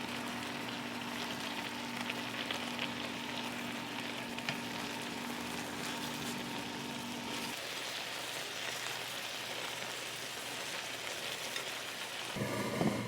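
Food sizzling and crackling in a hot frying pan. A low steady hum runs under it and stops a little past halfway, and there is a louder burst of sound near the end.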